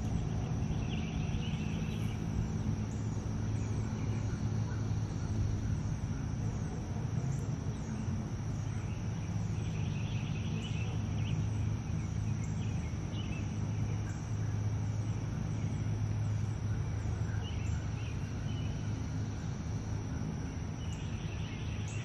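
Outdoor backyard ambience: a steady low rumble under faint bird chirps that come in short clusters a few times, with a thin steady high tone.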